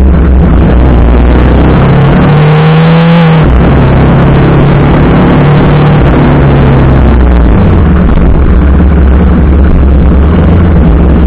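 TVS Apache RR310's single-cylinder engine running loudly while the motorcycle is ridden, with a rushing noise over it. Its pitch rises from about two seconds in and drops suddenly at about three and a half seconds, then it runs steadily.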